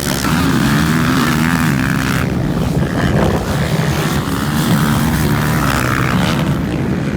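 Motocross motorcycle engines racing, their pitch rising and falling as the riders open and close the throttle and shift gears.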